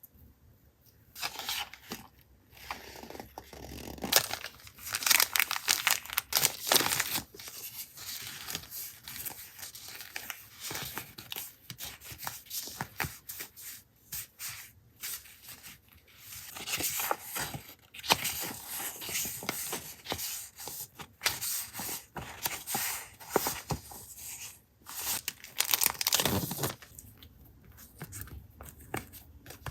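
Paper being torn and crinkled by hand in irregular rustling strokes, starting about a second in.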